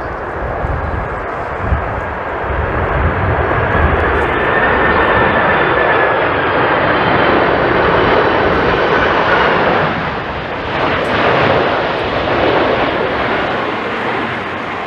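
Jet airliner passing close on approach, its engine noise swelling to a loud, steady peak with a high whine that slowly falls in pitch, then easing off. Gusty wind rumbles on the microphone in the first few seconds.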